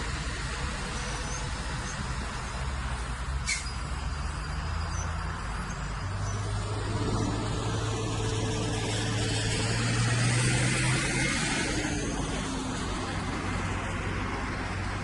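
Heavy diesel engine of a bulldozer running, its pitch rising about six seconds in and loudest near ten seconds, with one sharp click a little after three seconds.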